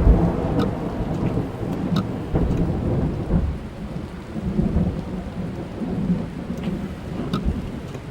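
Thunder rolling, loudest at the start and settling into a low rumble that swells and dies back, with rain hissing and single drops ticking on the car's roof and glass, heard from inside the car.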